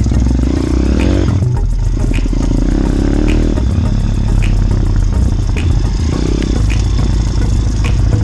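Motorbike engine running close by, its revs rising and falling several times, with light clattering ticks about once a second.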